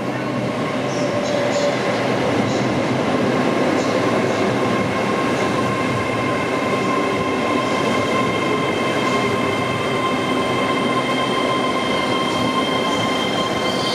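Train moving on the tracks close by: a steady rumble of wheels on rail with several steady whining tones over it and faint regular ticks. A high-pitched wheel squeal sets in at the very end.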